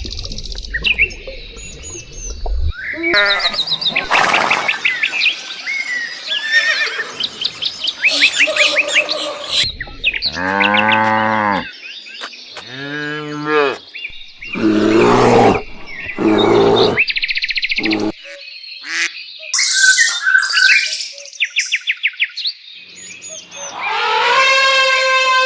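A string of different animal calls cut one after another: bird chirps and trills, and several pitched calls from larger animals, among them a long call near the end.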